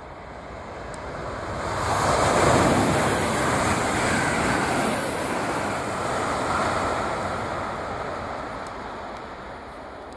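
Frecciarossa high-speed train passing at speed: a rushing noise that swells over about two seconds, holds loud for a few seconds, then slowly fades away.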